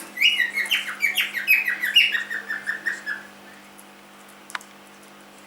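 Young cockatiel chirping a quick run of about fifteen short notes whose pitch steps downward over about three seconds, followed by a single sharp click.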